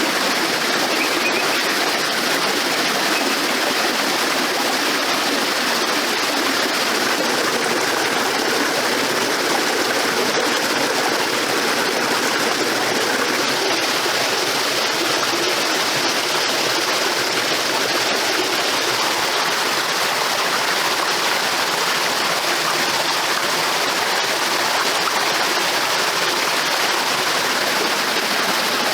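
Steady rush of flowing water, with no break or change in level.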